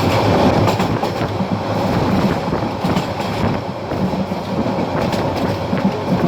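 Passenger train running at speed, a steady rumble with the wheels clicking over the rail joints.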